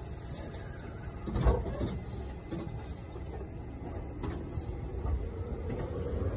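JR 211 series electric train starting to pull away from the platform: a single thump about a second and a half in, then wheel and motor noise growing louder, with a rising motor whine in the last seconds as it picks up speed.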